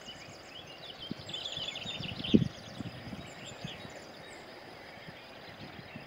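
Small birds chirping and trilling over a steady outdoor background, busiest in the first half. A few low thuds are mixed in, the loudest about two and a half seconds in.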